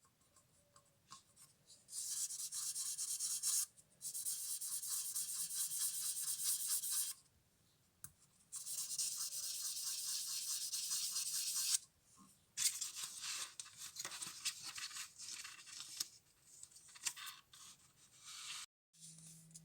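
Rapid back-and-forth scratching strokes on a small diecast model, as in sanding or brushing it. They come in four runs of a few seconds each, with short pauses between.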